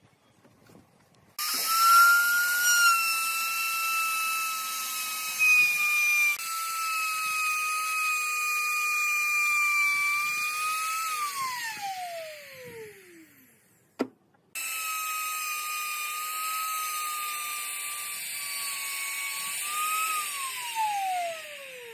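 Small high-speed electric power tool motor whining steadily. It is switched off and winds down with a falling pitch, then after a click starts again, runs, and winds down once more near the end.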